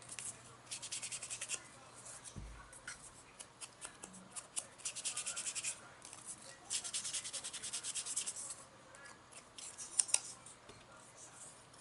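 Ink pad rubbed back and forth along the edge of paper in quick scratchy strokes, in several spells of a second or two each, to colour the white edge. A couple of sharper taps come about ten seconds in.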